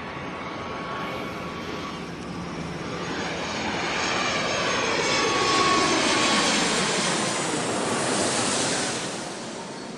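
Airplane flying past: the engine noise grows louder, peaks a little past the middle, then fades, its pitch falling as it goes by.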